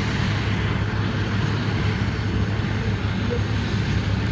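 Steady, unbroken drone of a running vehicle: a constant low engine hum under a broad rush of road and wind noise.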